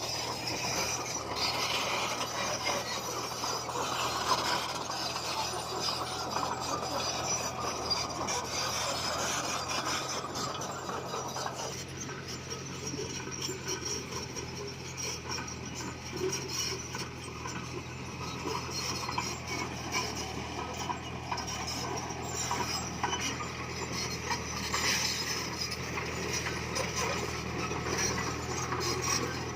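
Komatsu crawler bulldozer's diesel engine running steadily, with the metal grinding and clinking of its steel tracks and undercarriage.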